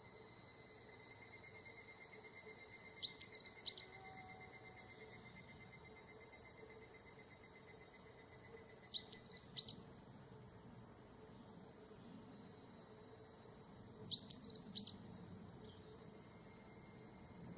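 Higurashi (evening cicadas) calling in a forest over a steady high insect drone, with three short bursts of quick, high chirping notes about five seconds apart.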